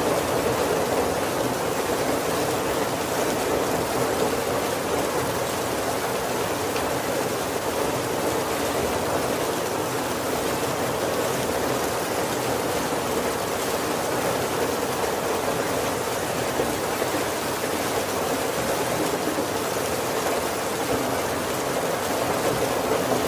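Steady heavy rain falling on a wooden roof, an even hiss with no thunder.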